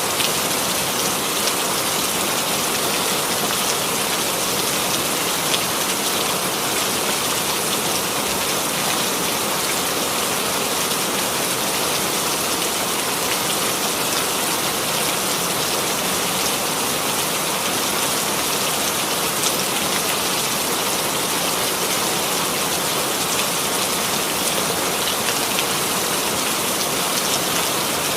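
Steady rainfall, an even hiss of rain on a surface with faint scattered drop ticks.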